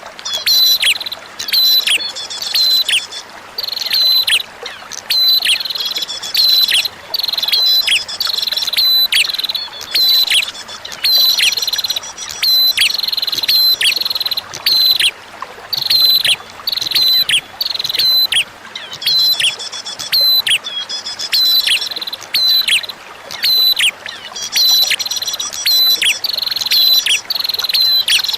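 Prinia (prenjak) singing: clusters of sharp, high chirping notes that drop steeply in pitch, repeated about every second. Under it is a faint steady wash of running water.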